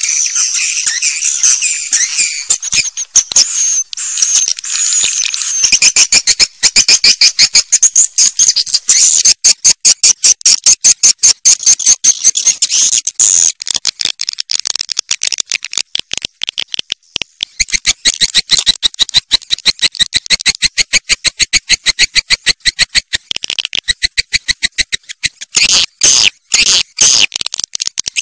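Swiftlet calls on a lure recording of the kind played to draw swiftlets into nesting houses: high twittering chirps over fast runs of clicks, about five a second, through most of it.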